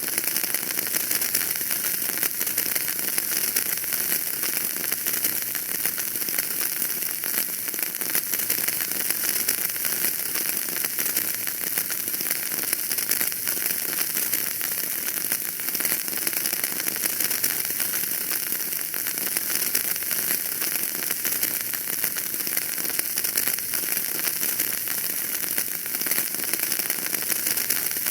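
Wood fire crackling in a fireplace: a dense, steady patter of small pops and snaps with a high hiss, without let-up.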